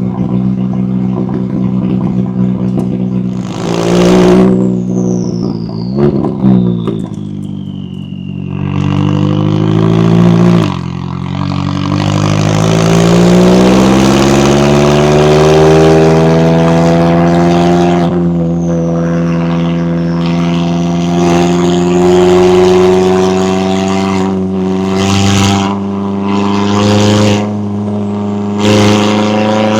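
McLaren 570S twin-turbo V8 and exhaust being driven hard. There are two short revs early on, then it accelerates with a drop in pitch at a gear change and pulls up to a steady high-revving run. A few sharp cracks come near the end.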